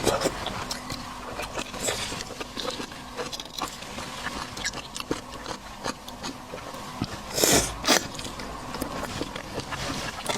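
Close-miked eating of seafood: wet chewing, smacking and small clicks throughout, with two louder slurping sounds about seven and a half and eight seconds in.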